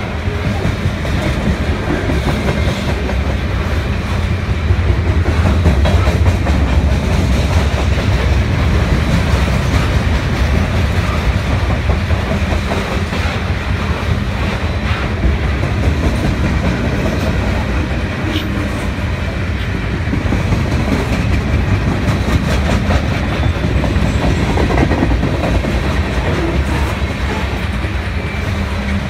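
Freight cars of a CN mixed freight train rolling past close by: a steady loud rumble of steel wheels with a running clickety-clack over the rail joints.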